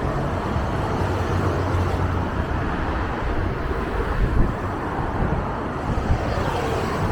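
Scania N310UA city bus running, a steady engine rumble mixed with road and traffic noise.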